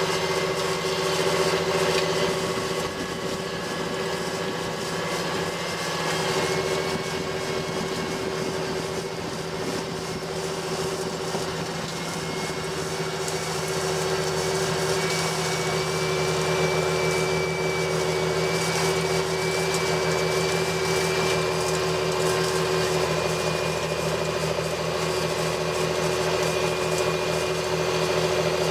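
John Deere 8530 tractor's six-cylinder diesel engine running steadily while pulling a cultivator, with a faint high whine that slowly rises in pitch partway through.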